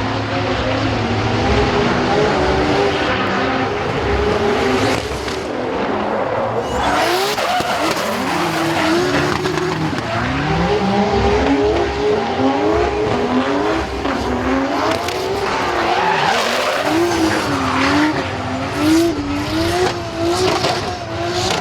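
Toyota Supra Mk4's 2JZ inline-six engine revving up and down again and again through a drift, with tyres squealing.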